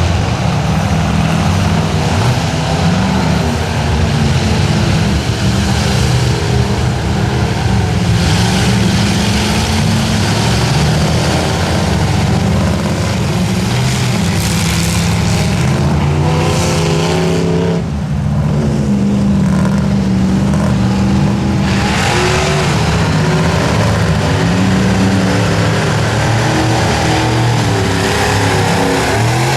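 Ford F-550 mud-bogging truck's engine running hard at high revs, the pitch rising and falling as the throttle is worked, with a brief drop about two-thirds of the way through before it picks up again.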